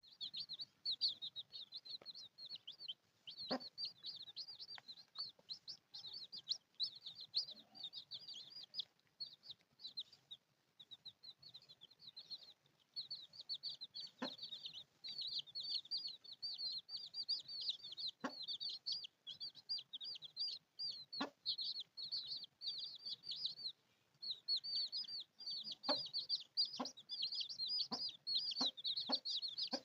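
A brood of baby chicks peeping: a dense, high-pitched stream of short rapid peeps, with brief lulls. A few sharp clicks come in between, louder toward the end.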